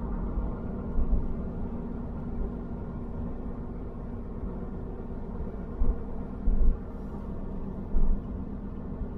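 Car driving on a paved country road, heard from inside the cabin: a steady engine and tyre drone, with a few short low thumps around six to eight seconds in.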